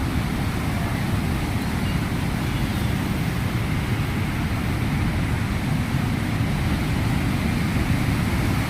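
Steady rushing noise of a waterfall, even throughout and heaviest in a deep low rumble.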